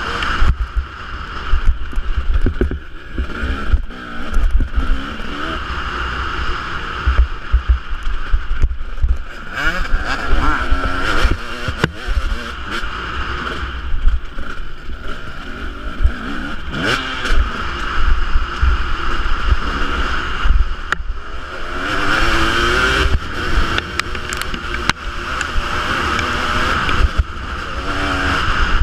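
Husqvarna 250 two-stroke motocross bike engine revving up and down over and over, over a heavy low rumble of wind on the microphone, with frequent short knocks.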